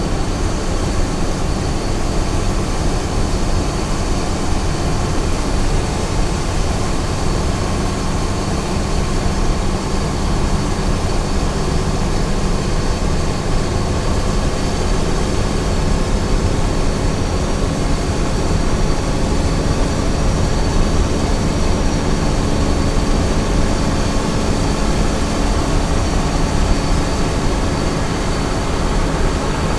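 Small truck driving at steady highway speed: engine running evenly with a constant drone of road and tyre noise.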